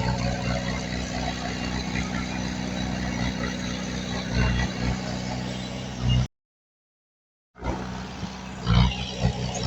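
Diesel engine of heavy earthmoving equipment running steadily, with a few louder knocks. The sound cuts out completely for just over a second past the middle, then the engine returns.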